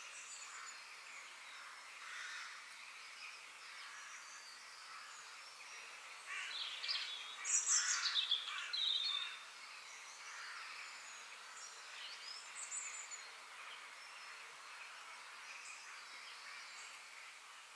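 Several forest birds singing and chirping over a steady background hiss, with a louder bout of calls a little before the middle.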